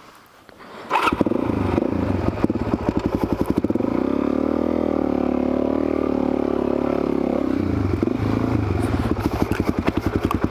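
Suzuki DR-Z400SM's single-cylinder four-stroke engine catching about a second in, then running with a lumpy pulse. It revs up in the middle and settles back down near the end.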